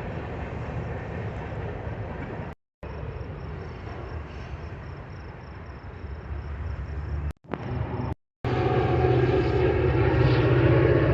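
Train passing with a steady rumble. The sound cuts out briefly three times, and about eight seconds in a louder engine drone with a steady low hum takes over.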